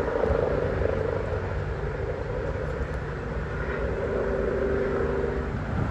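Police helicopter flying low overhead, a steady drone of rotor and engine that eases off near the end.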